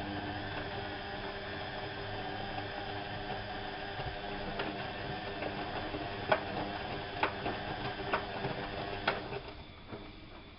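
Whirlpool AWO 5346 washing machine running with a steady mechanical hum, most likely its motor turning the drum. A few sharp clicks come in the second half, and the run stops about a second before the end.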